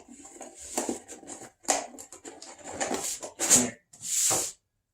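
Rummaging through a cardboard shipping box of parts: irregular rustling and scraping of cardboard and packaging with small knocks, and a longer rustle about four seconds in.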